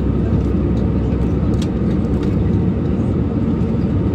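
Steady low rumble inside an airliner cabin in flight, the engine and airflow noise, with a faint click about a second and a half in.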